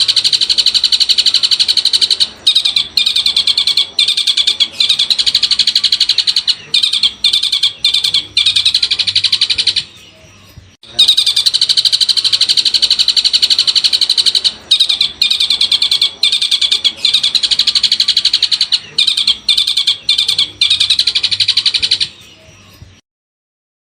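Long-tailed shrike (cendet) song played as a masteran training recording: a fast, continuous run of high chattering notes with short breaks. It comes in two stretches of about ten seconds each with a one-second pause between them, and stops shortly before the end.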